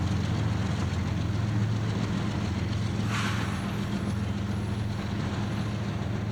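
Diesel locomotive engine running steadily with a low hum, and a short hiss of air about three seconds in.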